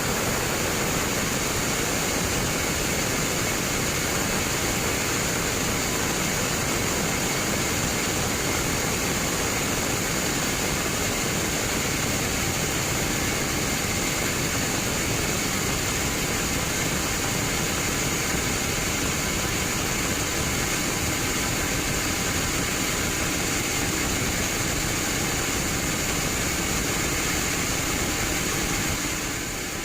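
Band sawmill running with a steady mechanical noise and a faint high whine, with a brief dip in level near the end.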